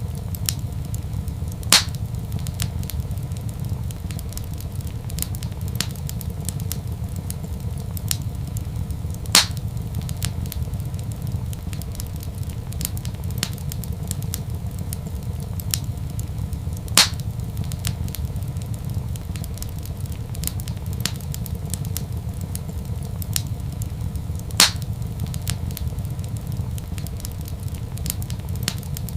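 Wood fire crackling in a fireplace, with a steady low rumble under a stream of small crackles. Four louder pops stand out, evenly spaced about seven and a half seconds apart.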